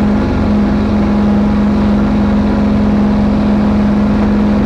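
Kubota diesel engine running steadily under load as the machine climbs a snowy hill.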